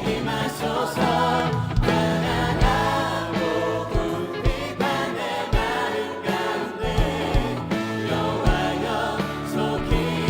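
A worship team singing a Korean contemporary praise song together over a full band, with a steady drum beat.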